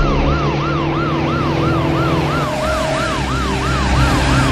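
Police car siren in a fast up-and-down yelp, about three sweeps a second, over a steady low drone.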